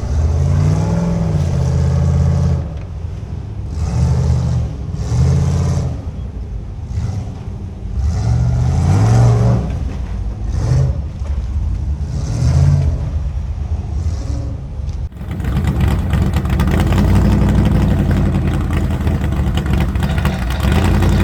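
Off-road rock-crawling rig's engine revving in repeated short bursts as it works over a boulder field. About fifteen seconds in the sound changes abruptly to a steadier, fuller engine note.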